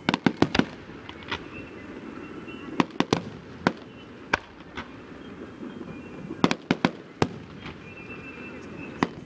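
Aerial fireworks shells bursting in irregular volleys of sharp bangs. A quick run of about five comes right at the start, then single and paired bangs, another cluster of four a little past halfway, and one more near the end.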